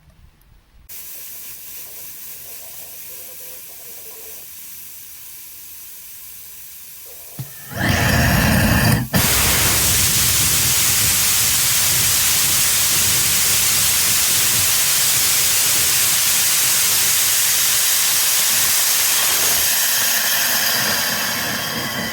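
Static firing of the HOM-900 hybrid rocket engine. A steady hiss begins about a second in. About seven and a half seconds in, the engine lights with a sudden loud surge and settles into a loud, steady roar of rushing noise, which starts to fade near the end.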